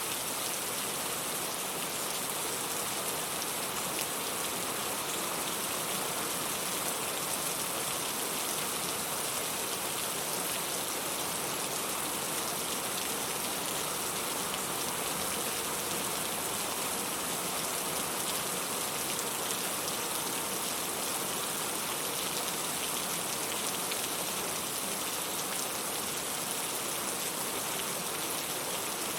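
Steady rain, an even, unbroken hiss of falling drops.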